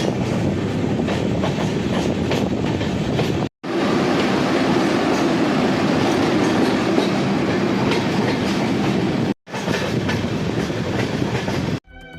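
Passenger train running along the track: a steady rumble and rattle of wheels on rails. The sound cuts out abruptly for a split second twice, and music starts near the end.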